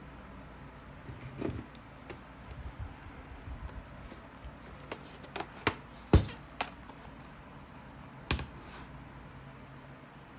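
Scattered light clicks and knocks of objects being handled, over a faint steady hum; the loudest is a sharp knock about six seconds in, with others around one and a half, five and a half and eight seconds in.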